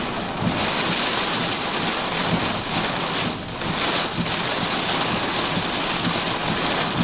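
Heavy rain from a severe thunderstorm pouring down in sheets with strong wind, a dense, steady hiss.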